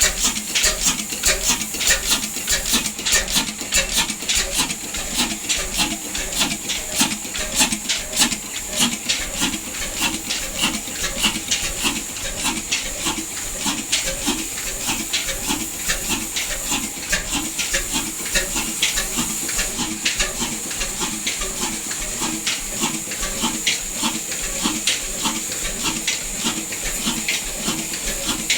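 Large stationary diesel engine running steadily with a regular, even chug from its exhaust beats and a clatter of sharp mechanical ticks over it.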